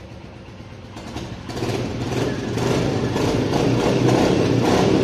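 New Royal Enfield motorcycle engine running after being started, getting markedly louder and fuller about a second and a half in and staying loud.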